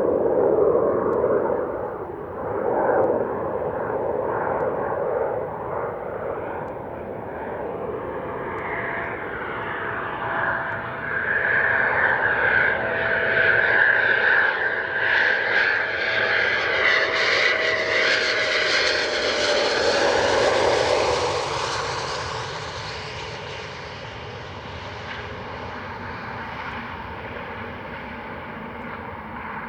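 Eurofighter Typhoon's twin Eurojet EJ200 turbofans as the jet flies low past. The noise builds to its loudest about two thirds of the way in, with a steady whine that drops in pitch as it goes by, then fades as it moves away.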